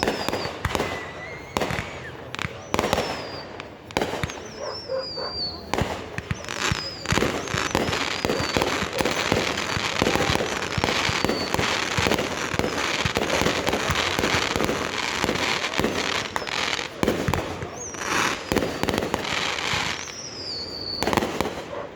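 Fireworks going off: a rapid stream of bangs and crackling, thickest through the middle, with several high whistles that waver and fall in pitch.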